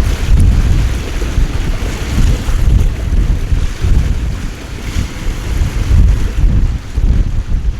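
Strong wind buffeting the microphone in uneven gusts over a steady hiss of heavy rain.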